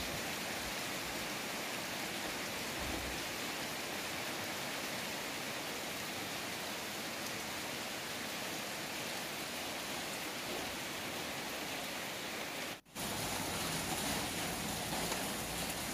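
Steady rain falling on a garden's leaves and ground, an even hiss. It breaks off for an instant about three-quarters of the way through, then goes on a little fuller.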